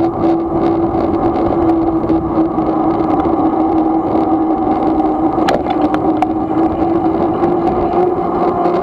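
Razor MX500 electric dirt bike motor running at a steady speed with a constant whine, over heavy rumble from wind and riding on the microphone. A few sharp clicks come through about five and a half seconds in.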